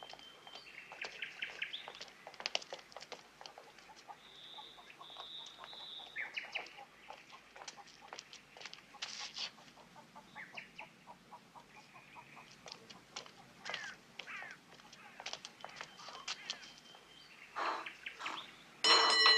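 Birds chirping and trilling, with many small scattered clicks. Right at the end a loud, steady pitched tone suddenly starts.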